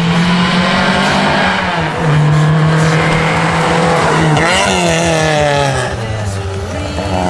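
Rally car engine held at high revs as it drives through a stage, then a sharp drop and rise in pitch about four and a half seconds in as the driver lifts and shifts, with the engine note lower near the end.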